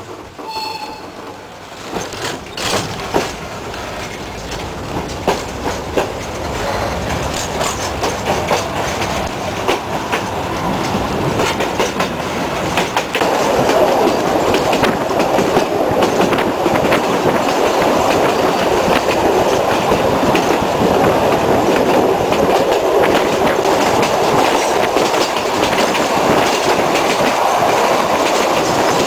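Electric narrow-gauge train of the Sóller railway pulling away and running, heard from an open carriage window. The wheels click over the rail joints, growing louder as it picks up speed. From about halfway through it turns into a steady, loud rumble and grind of wheels on rails.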